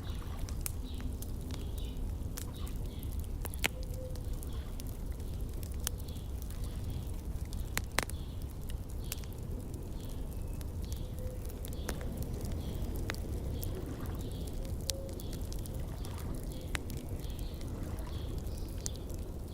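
Wood fire in a firepit crackling, with scattered sharp pops over a steady low rumble, and faint, regularly repeated high chirps behind it.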